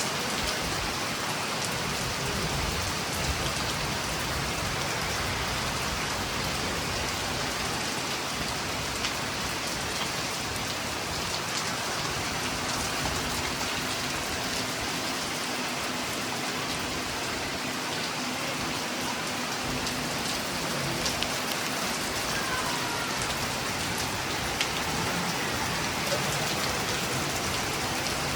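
Steady rain falling in a thunderstorm, an even hiss with scattered raindrop ticks.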